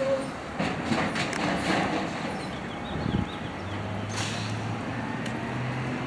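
Natural-gas automated side-loader garbage truck working its arm with the engine at idle, no revving: several clanks and knocks in the first half, then a steady low engine drone from about the middle on.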